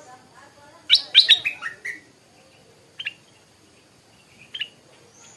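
Stripe-throated bulbul singing: a quick run of loud notes stepping down in pitch about a second in, then two short single notes.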